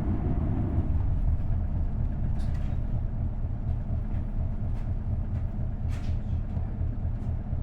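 Interior sound of an Isuzu Erga city bus with a V8 diesel engine and five-speed manual gearbox, the engine giving a steady low rumble as the bus runs. Faint light rattles from the cabin are scattered through it.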